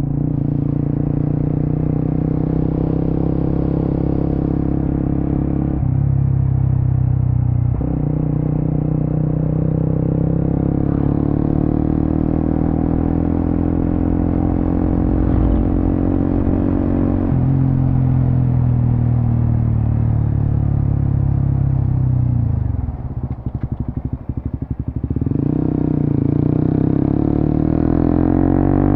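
Suzuki GSX-S150's single-cylinder engine through a Quinze Big Volume aftermarket exhaust while riding: the revs climb and break repeatedly as it shifts up through the gears. About two-thirds through the throttle closes and the engine note falls off with a stuttering sound on the overrun, then it pulls up again near the end.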